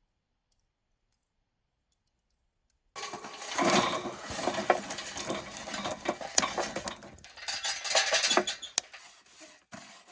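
Charcoal being handled in a metal charcoal grill: a dense clatter of hard knocks and metallic clinks. It starts abruptly about three seconds in after dead silence and thins out near the end.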